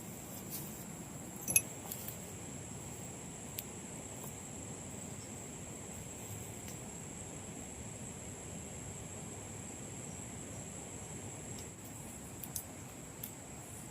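Insects, crickets or similar, droning steadily at a high pitch, over a low background hiss. A few sharp clicks or knocks break in, the loudest about a second and a half in and two smaller ones near the end.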